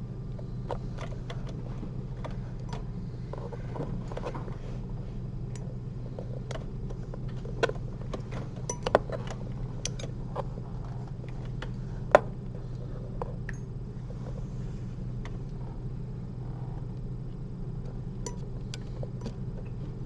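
Scattered small, sharp clicks of surgical instruments handled during suturing, with a few louder clicks near the middle, over a steady low hum.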